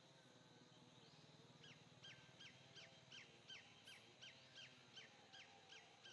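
Faint bird call: a rapid series of short, high chirps, each sliding downward in pitch, about three a second, starting a couple of seconds in, over a low background hum.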